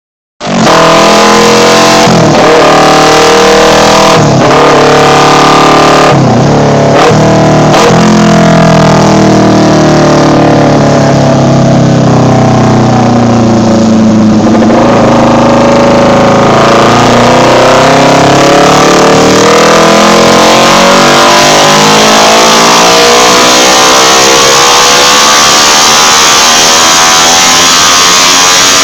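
Kawasaki Ninja 250's parallel-twin engine with a Totsubo aftermarket exhaust running loud on a dyno. Its note breaks briefly several times in the first eight seconds, as at gear changes, then the revs climb steadily in one long pull for about fifteen seconds.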